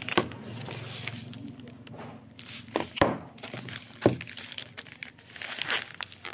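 Handling noise: three sharp knocks, the first right at the start, then about three and four seconds in, between crinkling, rustling sounds.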